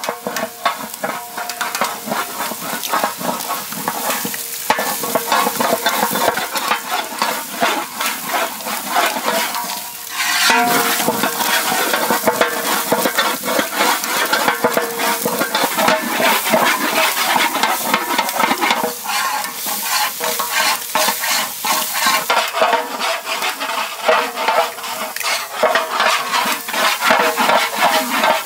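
Eggs frying in oil and masala in a large metal pot, sizzling steadily while a long ladle stirs and scrapes through them in quick strokes.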